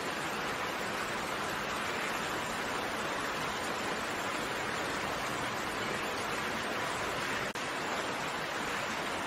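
Steady rain, a dense even hiss of raindrops without pauses, with a momentary dip in level about seven and a half seconds in.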